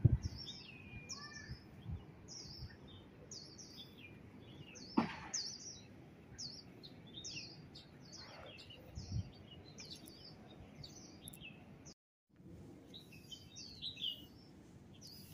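Birds chirping in a long run of short, high, downward-sliding notes, about two a second, over faint outdoor background noise, with a soft bump about five seconds in and a brief drop to silence near the end.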